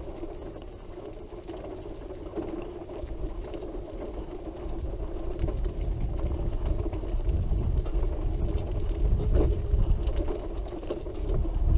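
Wheelchair rolling along a bumpy path: a steady hum with low rumbling from the wheels, which grows louder toward the end.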